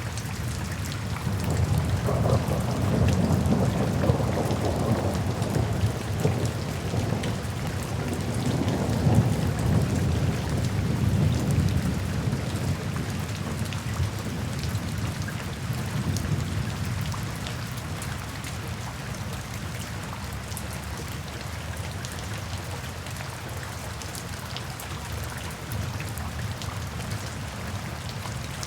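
Steady rain falling, with a long low roll of thunder that builds about two seconds in, swells twice and dies away a little past halfway, leaving the rain alone.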